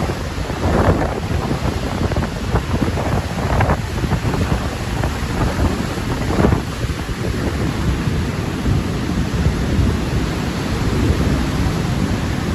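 Strong wind buffeting the microphone: a loud, constant low rumble with gusts swelling briefly about a second, three and a half and six and a half seconds in.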